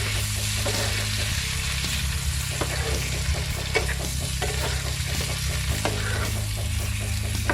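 Shrimp sizzling in hot garlic butter in a frying pan, with scattered clicks and scrapes of a utensil stirring them.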